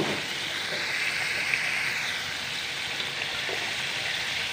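Pork liver frying in hot oil in a pan: a steady sizzle that swells briefly about a second in.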